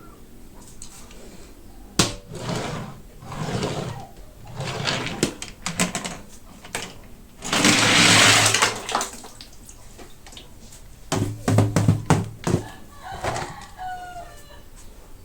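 Toy-car packaging being handled and opened: rustling and sharp clicks, with a longer, louder tearing noise about halfway through.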